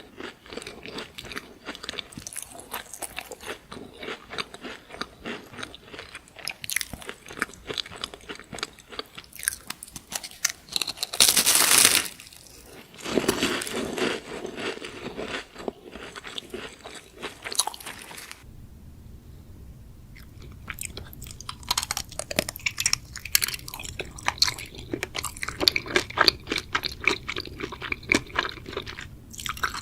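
Close-up crunching and chewing of crisp chocolate snacks, a run of irregular crackly bites and chews with one louder burst just before the middle. A faint low hum comes in about two-thirds of the way through.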